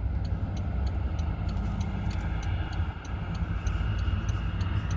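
Airplane taking off: a steady low engine rumble, with faint high ticking about three times a second.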